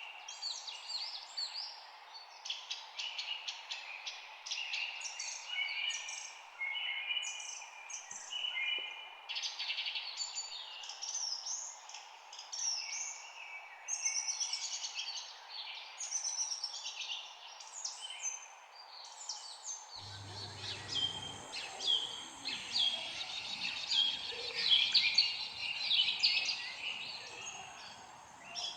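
Several small songbirds chirping and trilling in a dense, overlapping chorus of quick high notes over a steady background hiss. About two-thirds of the way through, the background thickens with a faint low rumble under the continuing chirps.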